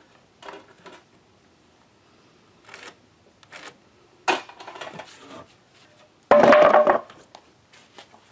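Lumber and tools being handled: scattered wooden knocks and clatters, with one louder burst of under a second about six and a half seconds in.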